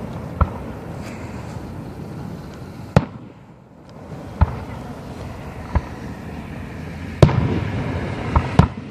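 Professional display fireworks: aerial shells bursting with sharp bangs every one to two seconds over a continuous rumble. The loudest bang comes about seven seconds in, then the rumble swells, and two more bangs follow close together near the end.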